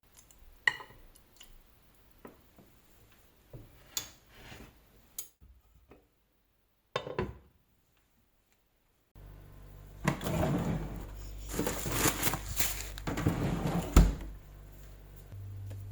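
Kitchen handling sounds: light taps and clinks of utensils and dishes, then a few seconds of louder clattering ending in one heavy thud.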